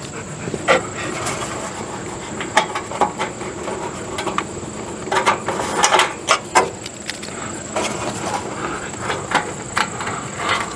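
Irregular clicks and knocks of hands and tools handling parts of an RV furnace's blower assembly, with a faint steady high-pitched whine throughout.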